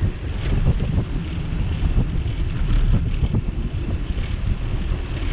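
Wind buffeting the microphone of a camera on a moving bicycle, a steady loud rumble, with small rattles and ticks from the bike.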